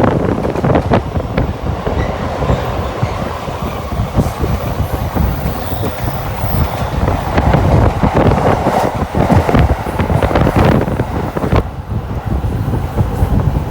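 Shinkansen train running on the line, heard as a loud, continuous rush of noise with many sharp wheel-and-rail clicks throughout. The train is the Doctor Yellow, the 923 series track-inspection Shinkansen.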